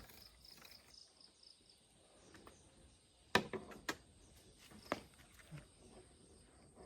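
A few sharp clicks and knocks, the loudest about halfway through, over a quiet background with faint, evenly repeated high insect chirping.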